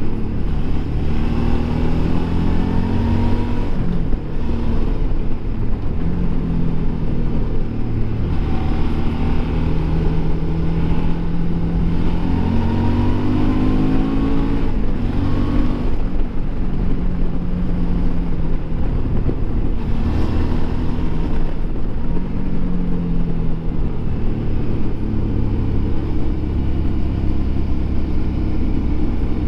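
Suzuki V-Strom DL650 XT's 645 cc V-twin engine heard from onboard while riding downhill, its note rising and falling again and again as the throttle is opened and closed, over a steady rushing noise.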